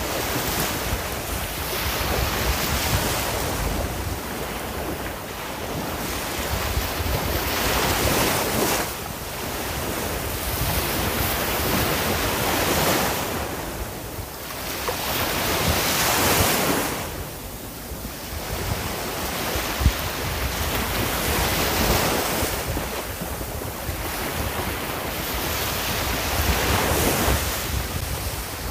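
Sea waves breaking and washing on the shore, swelling and ebbing every few seconds, with wind noise on the microphone. A brief click about two-thirds of the way through.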